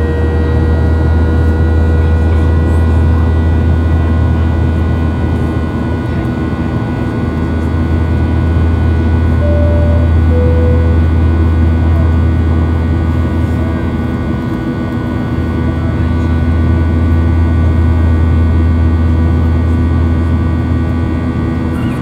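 Steady cabin drone of a Boeing 737-800 in flight: the CFM56 engines and airflow heard inside the cabin as a deep hum with steady whining tones, slowly swelling and easing. About halfway through, two short tones sound, the second lower.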